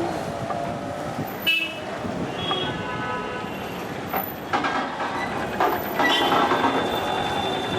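Street traffic running steadily, with vehicle horns tooting several times.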